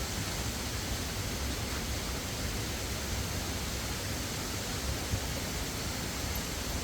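Rushing water of a jungle stream or waterfall, a steady, even hiss with no breaks.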